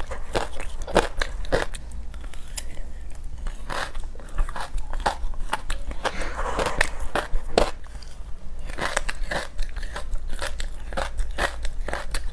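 Biting and chewing frozen creamy matcha chunks with buckwheat seeds in them: dense, irregular crunches and crackling pops as the frozen pieces break between the teeth.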